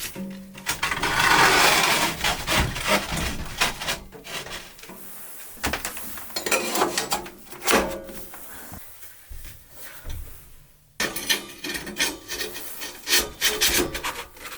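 Firewood being handled: logs knocking and scraping against each other in a series of wooden knocks and rough rubbing, with brief pauses.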